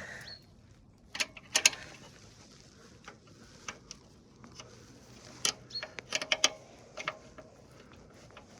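Hand tools clicking and tapping on metal as a spanner is worked on a nut of a motorcycle exhaust: scattered sharp clicks, with a quick run of them around the middle.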